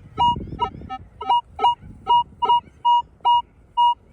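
Metal detector sounding about ten short beeps of nearly the same pitch, roughly three a second, as the coil is swung back and forth over a buried target. The signal repeats cleanly on each pass, the sign of a solid, genuine metal target.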